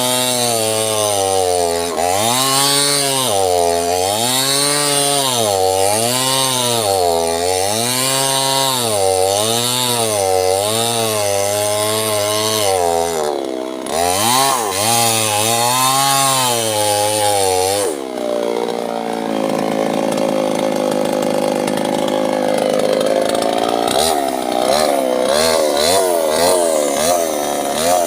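Small chainsaw cutting sengon wood, its pitch rising and falling about once a second as the chain bites and frees. About two-thirds of the way through it holds a lower, steadier pitch under load for several seconds, then goes back to rising and falling.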